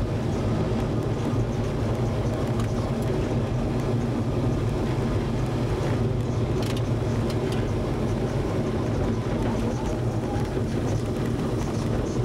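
Trabant rally car's engine running steadily at speed, heard from inside the cabin, with a few light knocks about six to seven seconds in.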